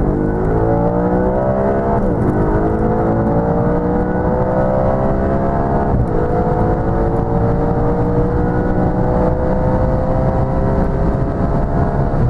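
Audi RS4's naturally aspirated 4.2-litre V8 accelerating hard through the gears. Its pitch climbs steadily and drops at upshifts about two and six seconds in.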